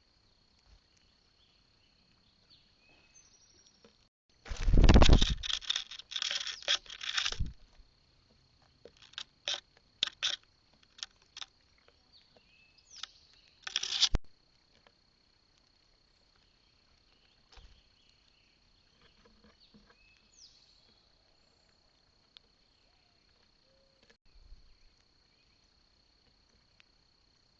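Birds at a feeder platform close to the microphone: a burst of scratching and clattering lasting about three seconds, then scattered sharp taps like pecking and a few short chirps. A steady high-pitched tone runs underneath.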